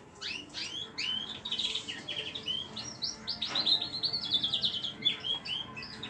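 Small pet cage birds chirping: a quick run of short, high chirps, with a fast trill of rapid notes about halfway through.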